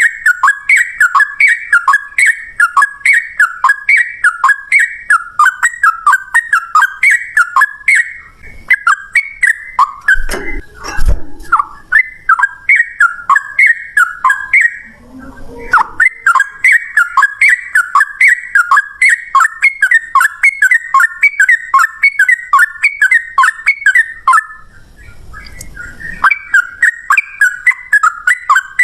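Yellow-vented bulbul (trucukan) singing a long, fast 'ropel' song: a rapid run of short whistled notes, about three a second, with two brief breaks. A low thump about eleven seconds in.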